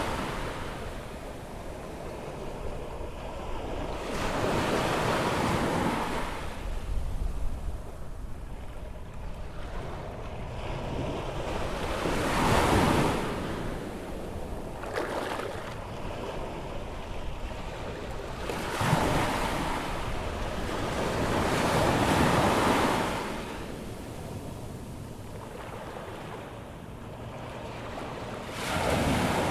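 Atlantic surf breaking and washing up the beach as the tide comes in, each wave a rushing swell that rises and falls every few seconds, with the loudest breaks about 12 s, 19 s and 22 s in. Wind rumbles on the microphone.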